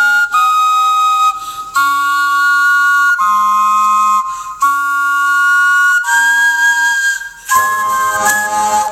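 Wind instruments made from vegetables playing a slow tune in held notes, several pitches at once, the chord changing about every second. Near the end the notes turn quick and short over a lower part.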